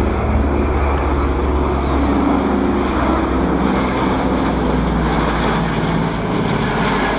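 Lockheed Super Constellation's four Wright R-3350 radial piston engines droning in a formation flypast, their low tones drifting slightly in pitch, mixed with the jet noise of the Patrouille Suisse's Northrop F-5E Tiger IIs flying alongside.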